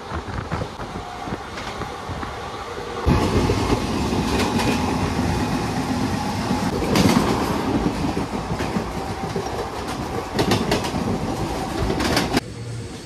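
Passenger train running, heard from an open coach doorway: a steady rumble with wheels clicking over rail joints. About three seconds in the sound abruptly gets louder and busier as the train runs close alongside an EMU local train on the next track, then drops back near the end.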